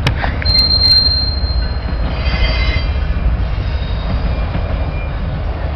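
Freight cars of a Pan Am Railways freight train rolling past with a steady low rumble, their wheels squealing: one thin high squeal from about half a second to two seconds in, then a cluster of several squealing tones around halfway.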